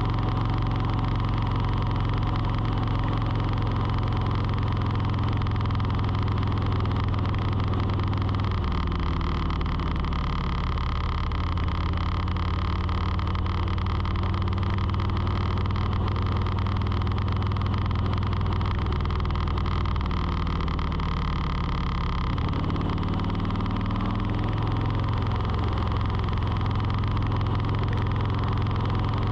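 A motor running steadily, its pitch stepping down about nine seconds in, then rising and dropping back again about two-thirds of the way through.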